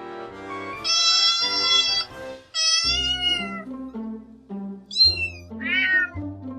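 A domestic cat meowing four times: two long drawn-out meows, the second falling in pitch, then two shorter ones near the end. Background music plays underneath.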